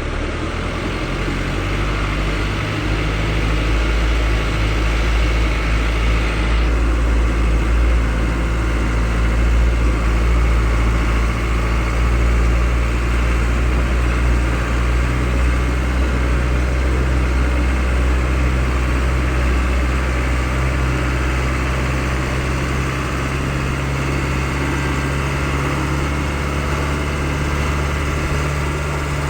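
Pickup truck engine running steadily, a low, even drone with no change in pace.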